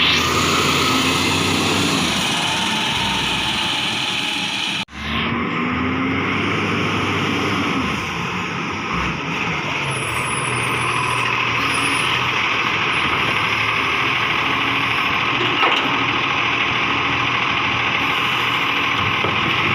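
Garbage truck running, a steady engine and mechanical noise. The sound cuts out abruptly for a moment about five seconds in, then resumes with a short rising tone.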